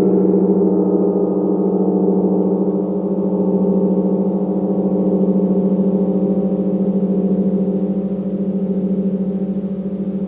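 Gong ringing in a sustained, shimmering wash of overlapping low tones that pulse gently, with no distinct strike.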